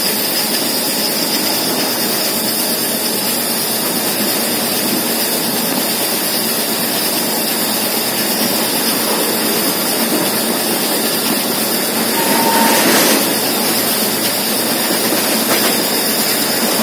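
Steady running noise of a passenger train heard from on board while it moves along the line, wheels on rail with rushing air. About twelve seconds in the noise swells briefly and a short high tone sounds.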